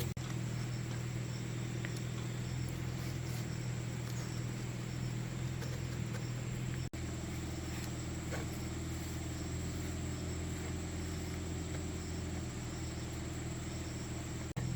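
An engine running steadily at a constant speed, a low even hum, with a brief dropout about halfway through.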